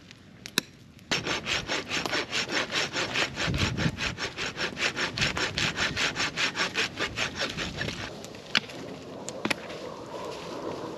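Hand saw cutting through a piece of firewood with quick back-and-forth strokes, about five a second, starting about a second in and stopping after about seven seconds. A few sharp pops follow.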